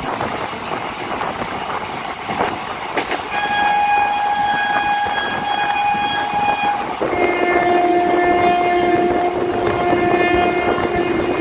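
A train running with a steady rumble and rattle. About three seconds in its horn sounds one held note for about three and a half seconds, then switches to a lower held note that is still going at the end.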